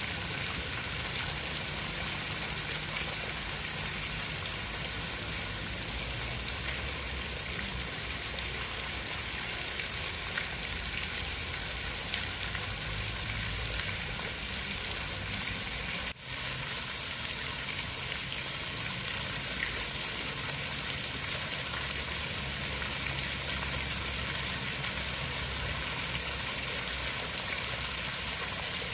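Steady rushing of water, an even hiss with a low rumble beneath, that briefly drops out about sixteen seconds in.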